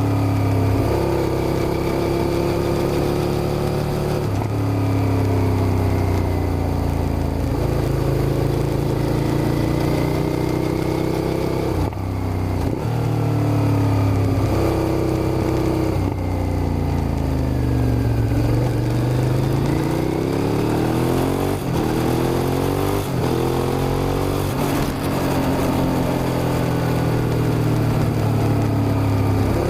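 Suzuki SV650's V-twin engine pulling hard under way, its pitch climbing through the revs and dropping sharply at each gear change. About halfway through it eases off with falling revs, then accelerates again with several quick shifts in a row.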